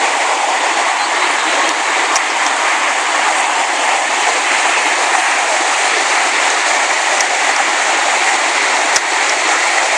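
Waterfall's falling water, a loud, steady rushing noise, with a few faint clicks.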